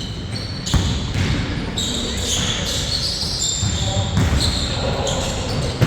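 A basketball bouncing on the court during play, with a sharp thud under a second in and another at the very end, among players' voices.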